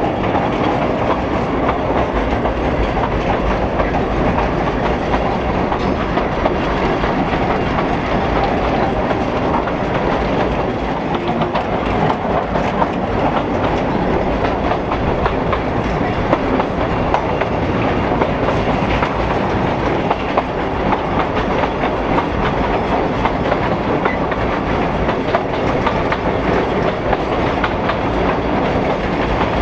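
Narrow-gauge railway carriage running along the track at a steady speed, its wheels rumbling and clicking on the rails.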